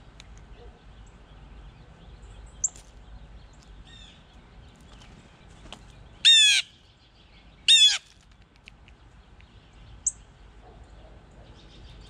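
A bird gives two loud calls about a second and a half apart, with a few short, faint high chirps from other birds before and after.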